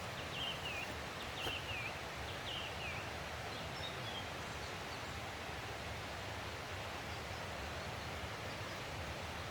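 Steady rushing of a forest stream, with a small songbird calling three short falling chirps in the first three seconds and a few faint higher chirps after.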